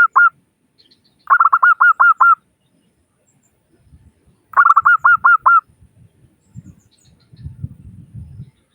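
Zebra dove (perkutut) cooing in two bursts of rapid staccato notes, about eight a second, each burst about a second long and the second coming some three seconds after the first. A faint low rumble lies underneath in the second half.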